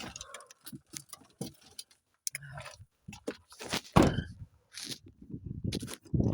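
Irregular clicks, crunches and knocks of handling, with heavier thumps about four seconds in and again near the end; there is no engine running or cranking.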